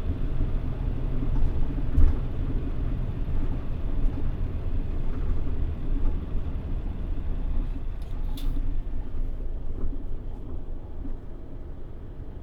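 Steady low rumble of a Mitsubishi Fuso PJ-MP35JM diesel city bus and its road noise, heard from inside while it drives. There is a sharp thump about two seconds in and a brief high hiss about eight seconds in, and the noise eases off near the end.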